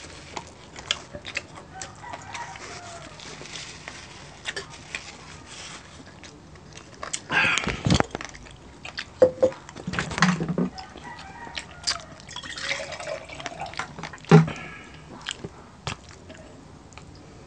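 Close-up eating sounds of two people eating crispy roast pork belly by hand: chewing, lip smacks and sharp crackles of the crisp skin. A few louder crunches or knocks come about eight, ten and fourteen seconds in, the one near fourteen seconds the loudest.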